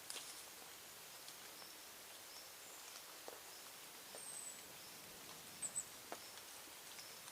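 Faint background hiss with a few thin, very high bird chirps: a short falling note about four seconds in and a quick double chirp soon after. A few soft clicks are scattered through it.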